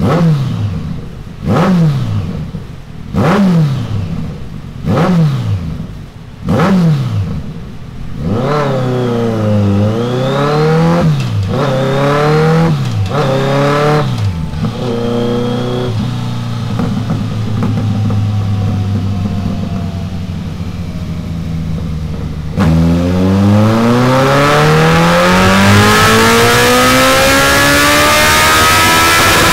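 Kawasaki GTR1400's inline-four through Delkevic Mini 8-inch carbon fibre mufflers: several sharp throttle blips, then longer revs that rise and fall, then a steady run. About 23 seconds in it opens up into a long, loud full-throttle pull on the dyno, its pitch rising steadily.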